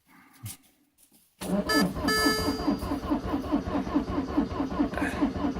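Citroen C5 diesel engine cranking on its starter motor in −11 °C cold, with an even rhythmic chug of about five compression beats a second. It starts about a second and a half in and never catches: a failed cold start on summer diesel fuel.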